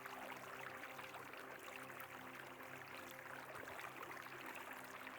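Faint, soft background music of held steady tones, over the quiet rush of flowing river water.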